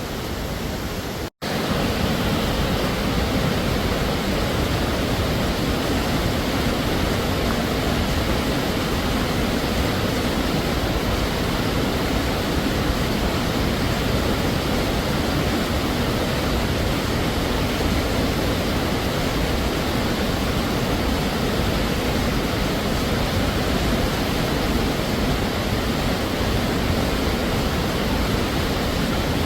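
Waterfall pouring heavily: a steady, dense rush of falling water. About a second and a half in it cuts out for an instant, then returns a little louder.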